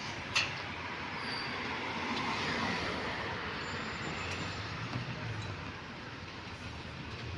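Street noise with a vehicle passing, growing loudest about two to three seconds in and then fading, with a sharp click near the start.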